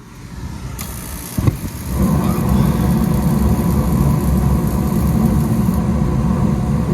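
Carrier rooftop gas heating unit running: a steady low rumble that jumps much louder about two seconds in, just after a short knock.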